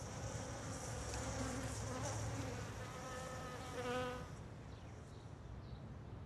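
Honeybees buzzing in a dense swarm around an exposed nest, with one bee's pitched buzz coming close and growing louder about three to four seconds in. The buzzing stops abruptly just after four seconds, leaving a quieter outdoor background.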